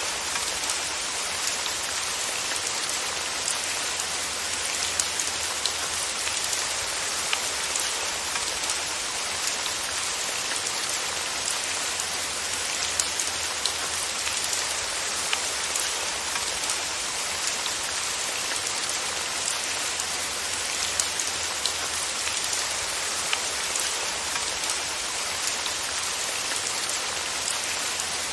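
Steady rain falling on a surface, a constant even hiss with scattered individual drops ticking through it.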